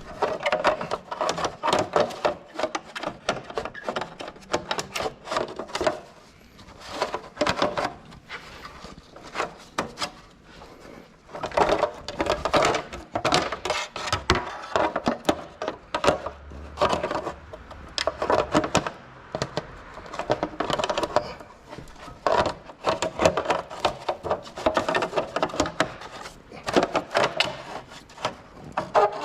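Bursts of rapid clicking and clinking from hand tools being worked, each run lasting a second or few with short pauses between.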